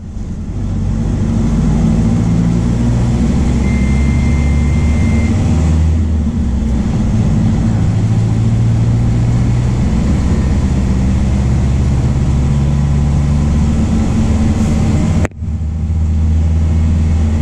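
MAN D0834 four-cylinder diesel engine of a VW 17.230 OD bus running under load, its pitch rising and falling as it pulls through the gears. A short steady beep comes about four seconds in, and the sound breaks off for an instant near the end.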